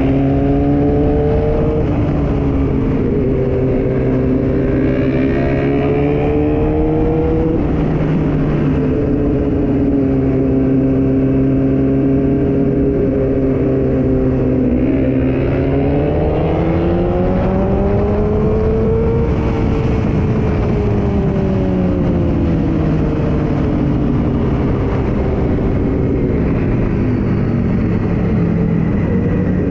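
Yamaha R6's inline-four engine heard while riding, its pitch climbing and falling back several times as the throttle is opened and closed, with a steady stretch in between.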